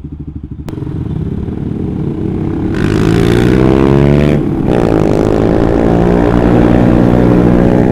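Suzuki GSX-R150 single-cylinder engine through an aftermarket R9 Mugello exhaust, pulsing low at first, then revving up as the bike accelerates. Its pitch rises, dips sharply at a gear change about halfway through, and climbs again.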